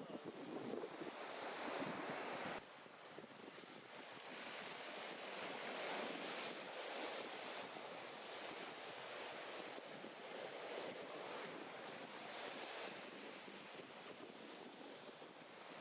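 Sea waves washing onto the shore, swelling and easing every few seconds, with some wind on the microphone. The sound changes abruptly about two and a half seconds in, as at an edit.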